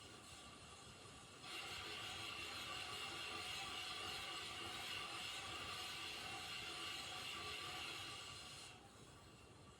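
Ceiling fan running with a steady high whine over a hiss, which the uploader takes for a fan gone wrong. It gets louder about a second and a half in and drops back near the end.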